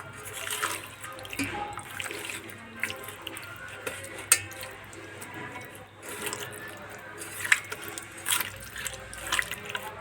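Water running and splashing, as from a tap into a sink, with irregular clinks and two sharp knocks.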